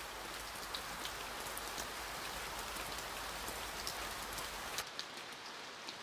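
Steady rain falling, an even hiss dotted with small sharp drop ticks.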